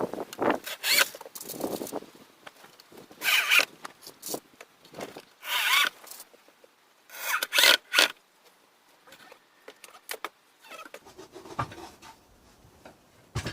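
Several short bursts of rustling and scraping, each under a second, with quiet gaps between.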